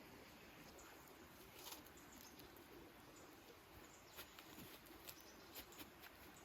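Near silence: a faint steady outdoor background, with a few light clicks and rustles in the second half.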